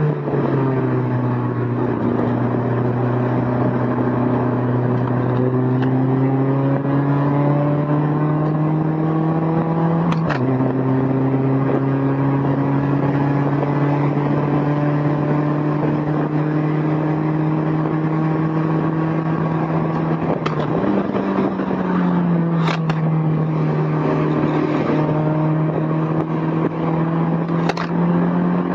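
Honda S2000's four-cylinder engine heard from the passenger seat with the top down, its pitch climbing slowly under moderate throttle, dropping sharply at a gear change about ten seconds in, then rising again, with a brief rise and fall a little after twenty seconds. A few sharp clicks come from the loose recorder clattering on the seat, over steady wind and road noise.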